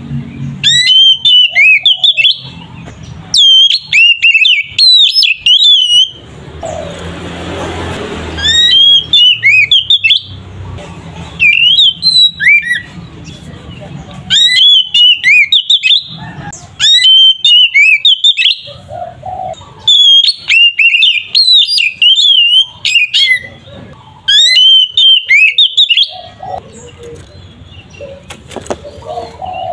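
Oriental magpie-robin singing loud, whistled, warbling phrases in bursts of one to two seconds with short pauses between them: the full, open 'ngeplong' fighting song of a male in top form.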